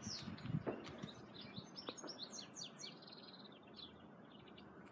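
Small songbirds chirping, with runs of quick, short, falling high notes. A few soft low knocks come in the first second.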